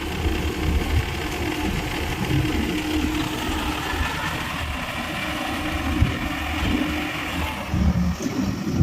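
Heavy diesel engine running steadily, with a sharp knock about six seconds in and a brief rise in loudness near the end.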